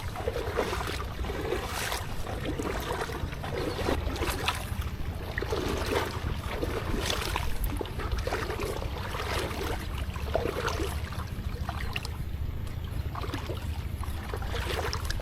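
Water sloshing and splashing in short repeated strokes, roughly one a second, as of someone wading through shallow floodwater, over a steady low rumble of wind on the microphone.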